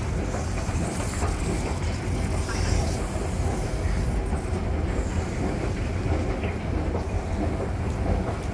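Subway train running on the rails: a steady low rumble with rail clatter and a hiss over the top for the first few seconds.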